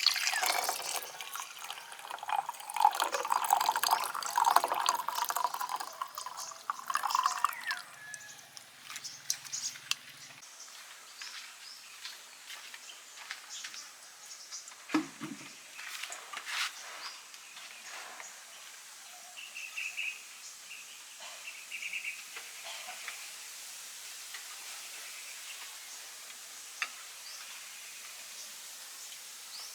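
Water running and splashing for the first several seconds, then a soft steady hiss with scattered clicks and a few short bird chirps.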